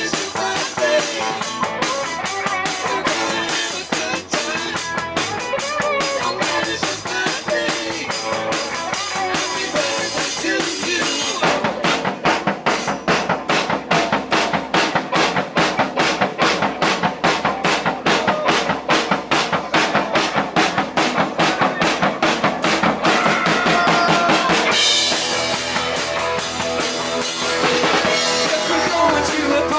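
Live rock band playing an instrumental passage with no singing. About eleven seconds in the drum kit comes to the front with a fast, even beat of sharp hits, and near the end the full band fills back in.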